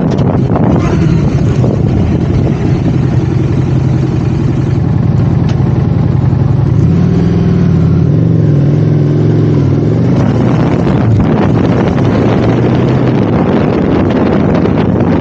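Motorcycle engine running, with wind noise on the microphone. The wind dies down for several seconds in the middle while the engine note wavers up and down, then the wind rises again after about ten seconds.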